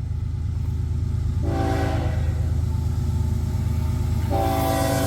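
BNSF diesel locomotive approaching with its engines rumbling steadily, sounding its multi-chime air horn: a short blast about a second and a half in, then a long blast starting near the end.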